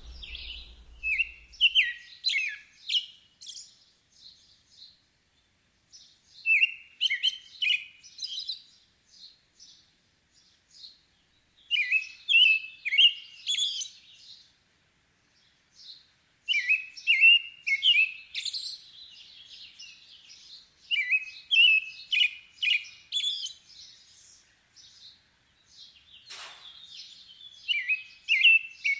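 Songbirds singing in repeated bouts of quick, high chirping phrases, each a couple of seconds long with short pauses between. A single quick falling sweep comes a few seconds before the end.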